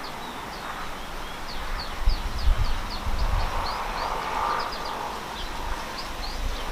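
Long-tailed shrike calling in the wild: a quick, irregular series of short, high chirps, with a few low rumbles underneath.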